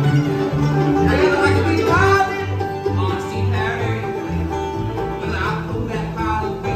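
A live bluegrass band playing, with banjo and guitar over steady bass notes.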